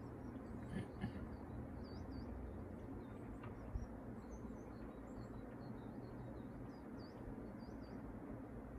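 Faint bird chirps over a steady low rumble, with a few soft clicks.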